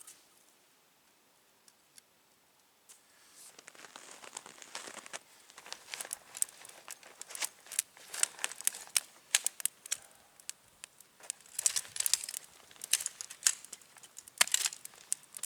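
Irregular crinkling and crumpling, like a wrapper or bag being handled, starting about three seconds in after near quiet.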